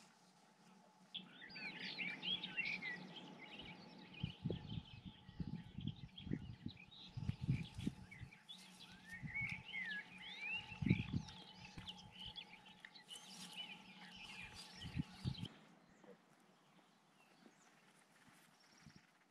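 Songbirds twittering in quick, rising and falling chirps, over a faint steady hum and irregular low thuds; it all fades out a few seconds before the end.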